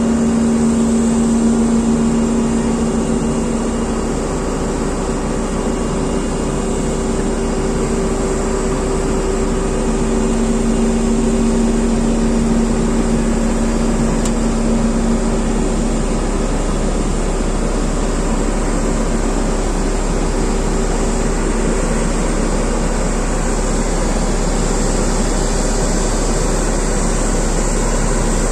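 A JCB road roller's diesel engine running steadily under work, with a steady hum that is strongest in the first few seconds and again in the middle.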